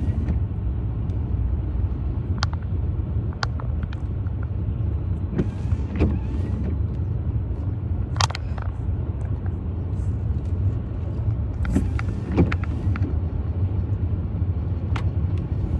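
Car driving, heard from inside the cabin: a steady low road-and-engine rumble, with scattered sharp taps at irregular moments.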